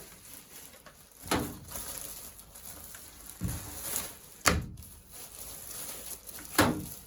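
A packet being opened and rummaged through by hand: rustling with four or five sharp knocks and clicks spread through it, as its contents (a fluff filter and paperwork) are handled.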